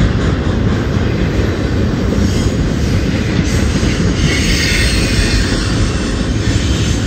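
Double-stack intermodal well cars of a freight train rolling past: a loud, steady rumble of steel wheels on rail, with a brief higher wheel squeal about four seconds in.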